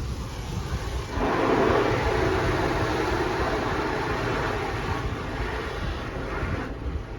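Automatic car wash working over the car, heard from inside the cabin: a rushing pass of spray or brushes swells up about a second in and eases off near the end, over a steady low rumble.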